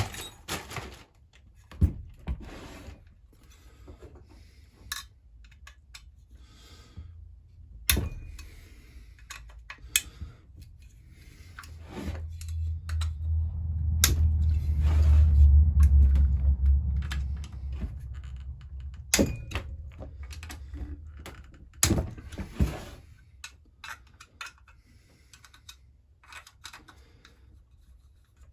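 Chainsaw parts and hand tools being handled during a teardown, giving scattered sharp clicks and knocks. A low rumble swells and fades in the middle.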